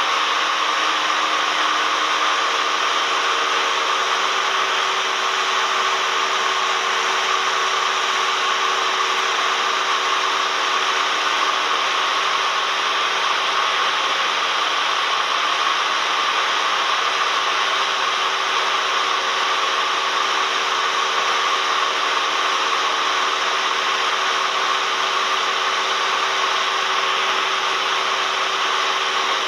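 Cessna 172M's four-cylinder Lycoming engine and propeller running steadily, a loud, even drone with a rushing hiss heard from inside the cabin.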